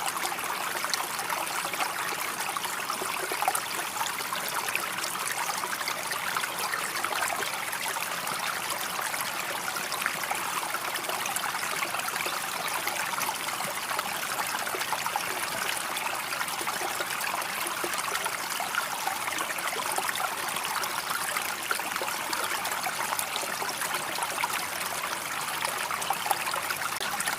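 Water running and splashing in a steady stream.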